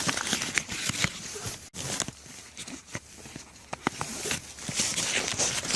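Irregular rustling, crackling and small snaps, as of someone moving over wet leaf litter and handling outdoor gear, over a steady high hiss.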